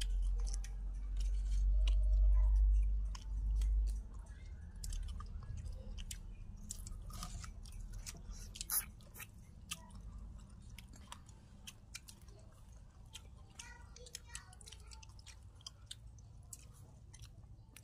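People chewing food close to the microphone, with many small crackling mouth clicks and crunches. A low rumble covers the first four seconds.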